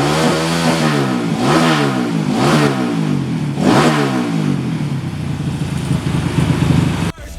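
Dirt bike engine on a grasstrack, revving hard, its pitch dropping and climbing again roughly every second as the rider shifts and rolls on and off the throttle; the sound cuts off suddenly near the end.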